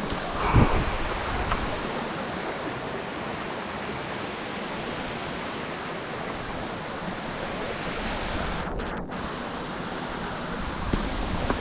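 Steady rushing of Lanka Ella waterfall, with a brief bump on the microphone about half a second in.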